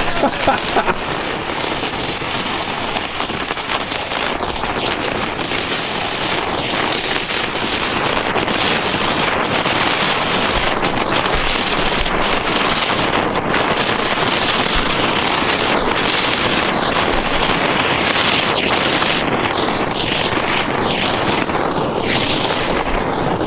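A firework burning with a steady hiss and many small crackles.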